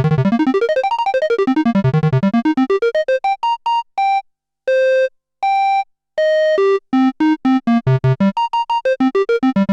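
Moog Grandmother analog synthesizer playing an arpeggio: rapid notes sweeping up and down in pitch. About midway it thins to a few slower, separate held notes with short gaps, then speeds up into fast runs again near the end.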